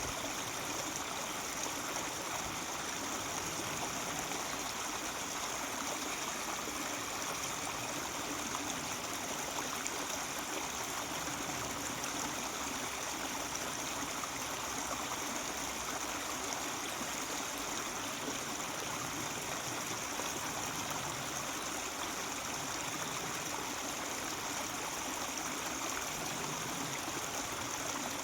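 Mountain stream running over rocks, a steady babble and rush of water with no change throughout.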